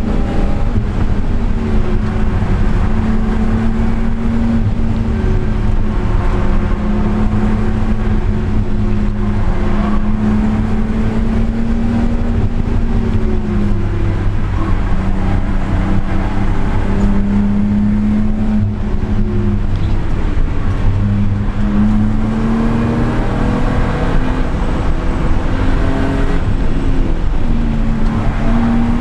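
Car engine and exhaust at high load on a fast lap, heard onboard. The engine note climbs slowly and drops back several times.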